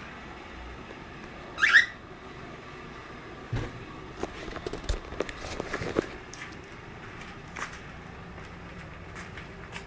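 Cockatiel giving one loud, short call that falls in pitch about two seconds in, followed by a run of light taps and knocks over a couple of seconds, over a steady hiss.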